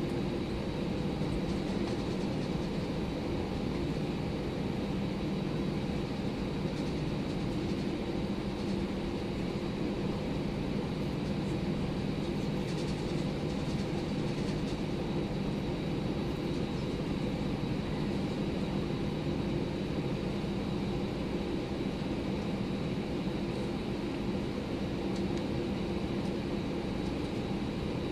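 Steady cabin noise inside an Airbus A319 airliner: an even rush of engine and air noise with a faint high whine.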